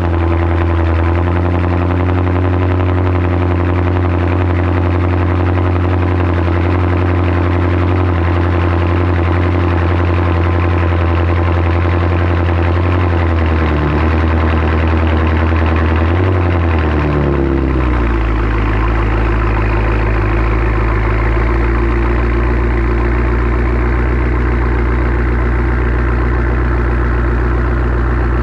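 2013 BMW F10 M5's twin-turbo V8, fitted with twin GTX3576R turbos and an Eisenmann race exhaust, running at a raised cold-start idle. About 17 seconds in the idle drops and settles to a lower, steady idle.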